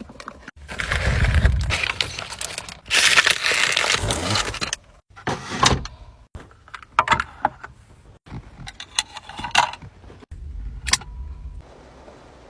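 Clinking, rattling and rustling of small objects being handled, in short clips that cut off abruptly one after another.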